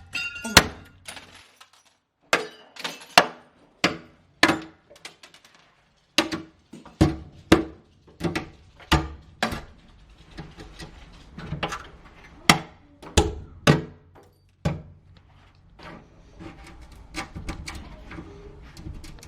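A hand tool strikes repeatedly as a broken door pane is patched: about twenty sharp knocks at an uneven pace, roughly one or two a second, with a short pause near the start and lighter ticking toward the end.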